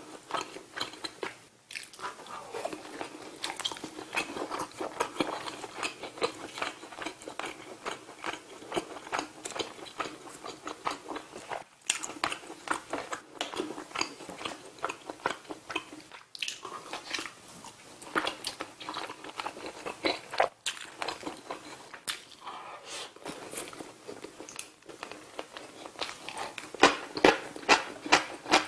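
Close-miked chewing of grilled saury: a continuous run of crisp crunches and wet mouth clicks. The crunches grow louder and come closer together near the end.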